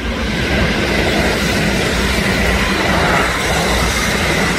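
A train running close by: a loud, steady rush of wheel-on-rail noise with a faint high ringing tone in it. It swells up at the very start.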